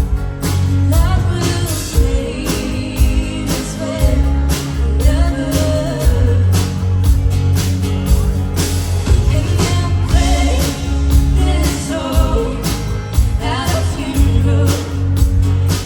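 A live rock band playing a song, with a singer over drums, bass and guitar.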